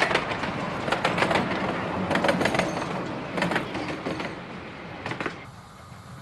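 A miniature railway train running along the track, its wheels clicking over the rail joints in clusters about a second apart over a steady rumble. The sound fades, then cuts off suddenly about five seconds in to a quieter low hum.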